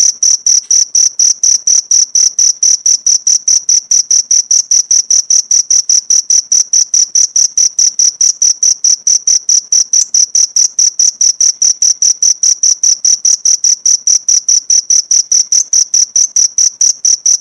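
Cricket chirping: a loud, high-pitched pulse repeating evenly about five times a second.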